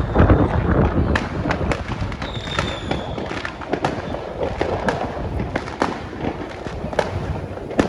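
Fireworks going off: a quick, irregular run of sharp bangs and crackles over a low rumble, with a high whistle that falls slightly for under a second, about two and a half seconds in.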